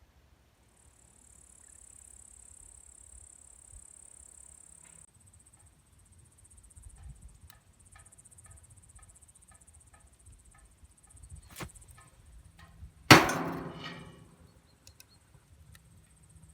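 A single loud metallic clang with a ringing decay near the end, most likely thin sheet steel of the camping stove knocking together. Before it come a faint, even ticking at about two a second, a sharp click and a steady high hiss.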